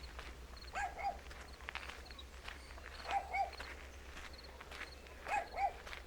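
An animal calling in pairs of short, arched notes, a pair about every two seconds, three times, over the walker's footsteps.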